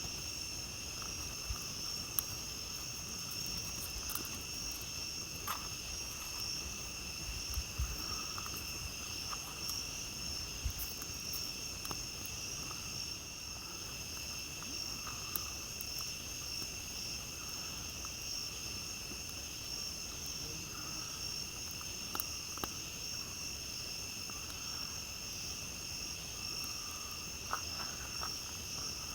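A steady chorus of night insects trilling at several high pitches at once, with scattered sharp crackles and pops from a campfire.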